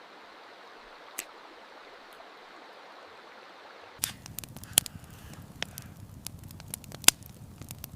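Steady rushing of river water with a single click about a second in, then an abrupt change halfway through to a campfire crackling: irregular sharp snaps over a low rumble.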